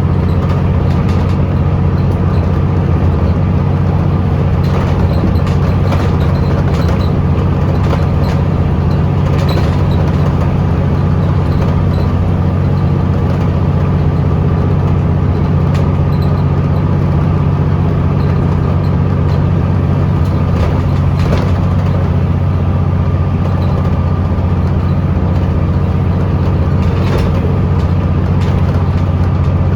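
Scania L94UB city bus's diesel engine running steadily under way, heard from inside the bus. The engine drone is heavy and even, with a faint steady whine above it and occasional light clicks and rattles.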